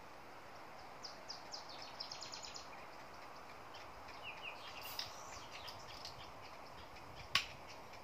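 Small birds chirping in quick series of short high notes over a faint, steady outdoor background hiss, with one sharp click near the end.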